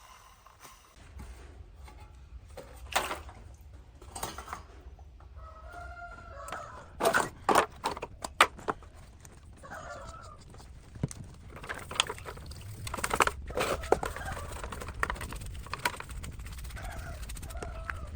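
Scattered sharp clicks and knocks, the loudest cluster about seven to eight seconds in, with a few short animal calls, like a hen's clucks, in the background over a low steady hum.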